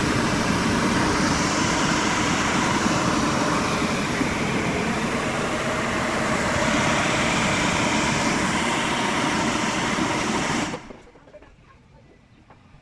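Loud, steady mechanical rushing noise, like a machine or blower running, that cuts off suddenly about eleven seconds in.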